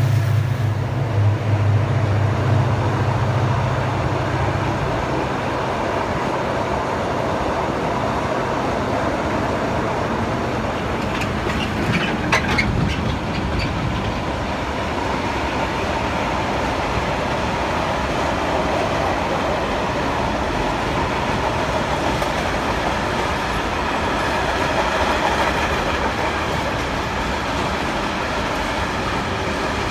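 Long freight train rolling past. The diesel locomotive's low engine drone fades out over the first five seconds, leaving the steady rumble of freight wagons on the rails, with a short cluster of wheel clacks about twelve seconds in.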